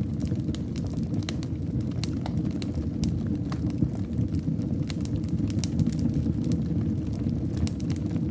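Wood fire in a fireplace crackling: many small, sharp, irregular pops and snaps over a steady low rumble.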